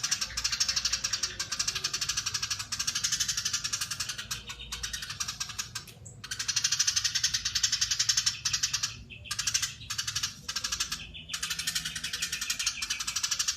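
Eurasian tree sparrow giving long, rapid, tightly packed chattering runs (crecetan), broken by a few brief pauses.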